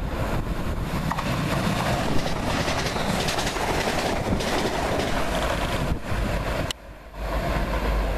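Passenger train passing close at speed: a steady loud rush of wheel and air noise. The sound drops out abruptly near the end, then the rush comes back.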